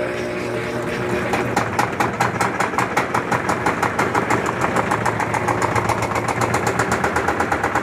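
Electrolux LT13B top-loading washing machine running, a steady motor hum at first, then from about a second in a rapid, even knocking of about eight beats a second as the drum spins and the suspension bangs. It is the suspension noise that the owner finds very annoying and puts down to the machine running unbalanced.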